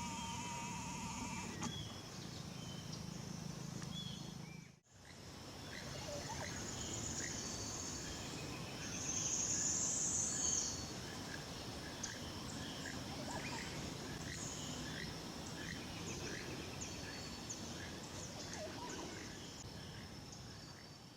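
Tropical forest ambience: a steady high insect hiss under many short, thin bird chirps and rising whistled notes, with a louder buzzing insect call for about a second and a half near the middle.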